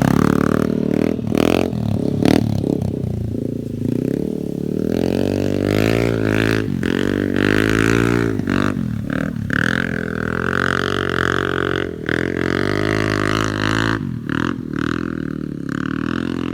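Yamaha NMAX scooter's single-cylinder engine running under way, its pitch rising and falling again and again as the throttle is opened and eased.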